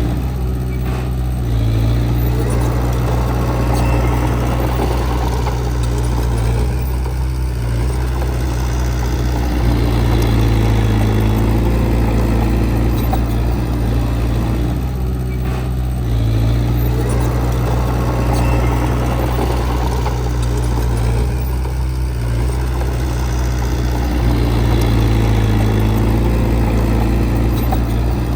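Heavy earthmoving machine's diesel engine running continuously, its level swelling and easing every several seconds as the load changes.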